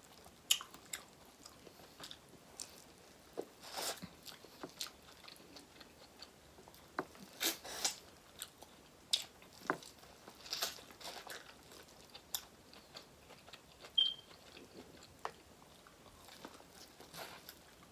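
Close-miked mukbang eating of seafood boil food: irregular crunches, cracks and wet chewing, with a few louder snaps scattered through and one brief high squeak about 14 seconds in.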